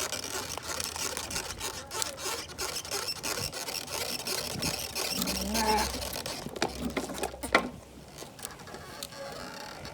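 Plastic pouch of a chamoy pickle crinkling and rustling as it is handled and tugged at in an attempt to tear it open, with a sharp click a little past halfway.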